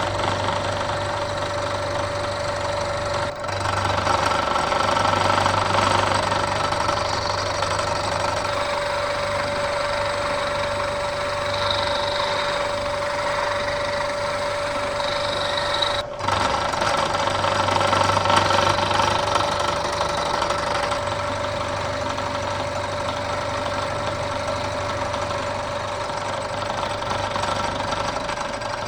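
Bridgeport milling machine running with an end mill cutting the metal base block in a deep roughing pass: a steady machine drone with a held tone and cutting noise. It drops out for an instant twice, about 3 seconds in and about 16 seconds in.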